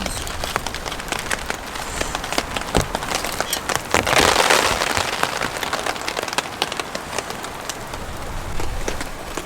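Rain falling, with many sharp raindrop ticks on a surface over a steady wash of noise and a low rumble of wind. A louder rush comes about four seconds in and lasts about a second.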